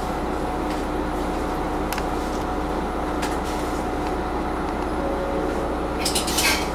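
Diesel railcar running, heard from on board: a steady drone with a faint constant hum and a few sharp clicks, and a brief cluster of rattling clicks and hiss near the end.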